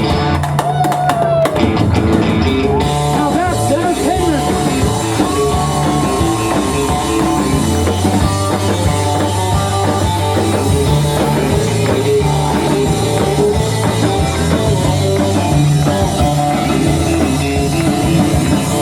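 Live rock band playing an instrumental passage, with a drum kit keeping a steady beat under bass and guitar lines.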